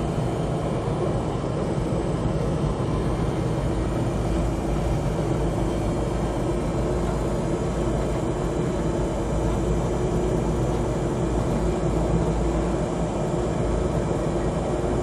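Steady running noise of a moving passenger train heard from inside the coach: a low rumble of wheels on rail with an even hiss over it.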